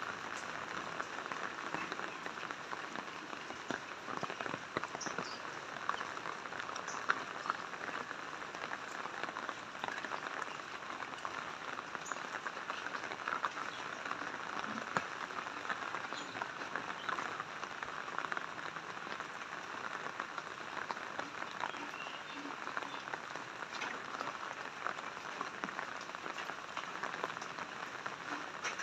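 Steady rain pattering on surfaces: an even hiss made of many small drop ticks, with no change in strength.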